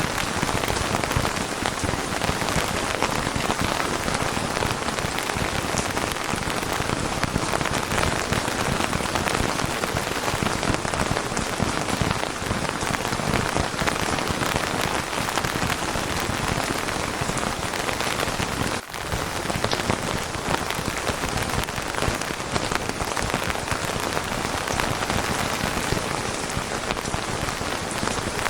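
Steady, dense rainfall, an even patter of many drops on a surface, with a momentary drop-out about nineteen seconds in.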